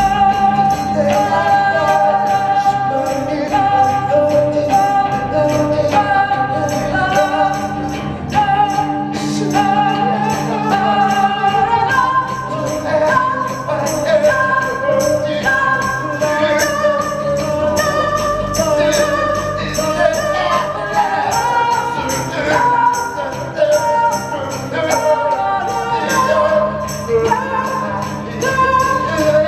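Live band music with voices singing sustained melodic lines over a steady percussive beat.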